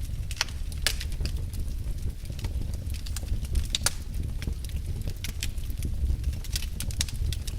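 Wood fire burning in a fireplace, crackling: sharp irregular snaps and pops over a low steady rumble of the flames.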